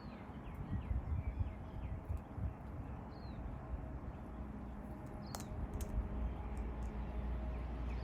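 A few short, faint bird chirps over a low rumble with soft thumps, and a single sharp click about five seconds in.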